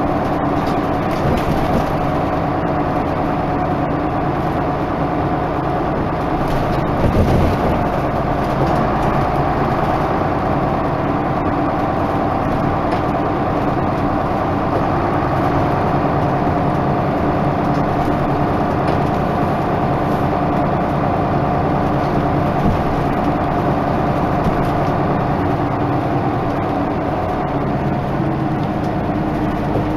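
Isuzu Erga Mio bus (KK-LR233J1) engine running steadily while the bus is under way. A short thump comes about seven seconds in, and the engine's pitch rises slightly near the end.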